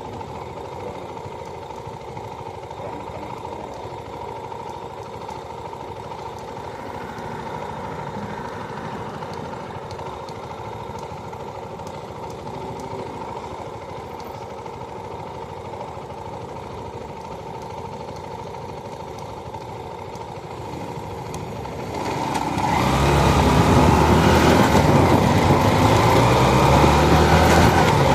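Motorcycle engine running steadily, then growing much louder and fuller near the end, as when the throttle is opened.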